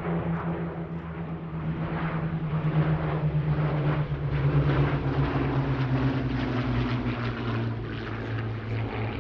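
Hawker Hurricanes' Rolls-Royce Merlin V12 engines passing by, loudest about four to five seconds in, the engine note falling slowly in pitch as they go past.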